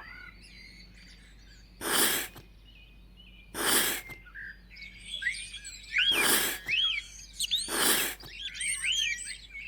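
Small birds chirping and tweeting in quick rising-and-falling notes, busier in the second half, with four short, loud swishes spaced about two seconds apart.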